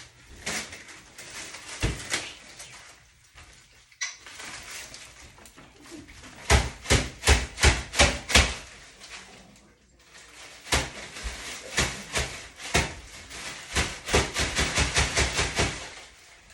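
Knife chopping on a cutting board: scattered single chops, then two quick runs of about four chops a second, one a little past the middle and a longer one near the end.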